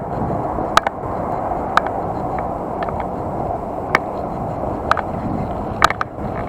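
Bicycle rolling along with a steady rumble of tyres and wind noise, broken by sharp rattling clicks about once a second as the bike jolts over bumps.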